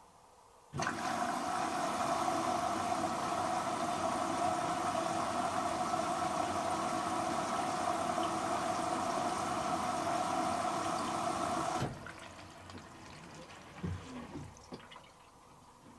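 Hoover H-Wash & Dry 500 washer dryer's water inlet valve snapping open and water rushing into the machine in a steady hiss with a hum, early in the pre-wash fill. It starts suddenly about a second in and cuts off sharply near the end, leaving faint knocks from the drum.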